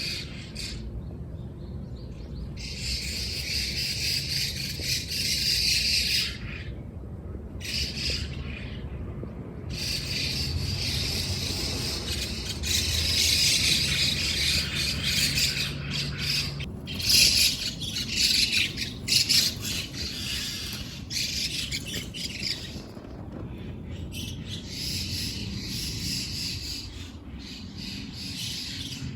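A busy chorus of many small birds chirping and twittering outside, in stretches of several seconds with brief pauses between them.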